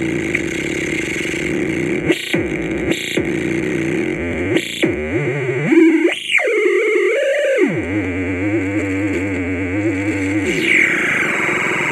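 Touch-controlled DIY noise synthesizer producing static and noise with short bursts, warbling, wavering tones and pitch sweeps, and a low steady hum for a few seconds in the middle. Near the end there is a falling glide.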